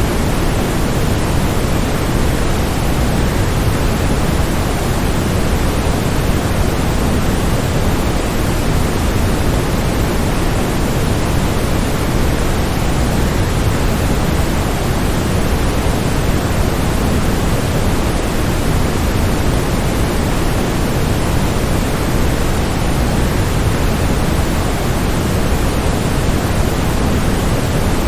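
Waterfall, a steady unbroken rush of falling water with no changes or separate events, heaviest in the low end.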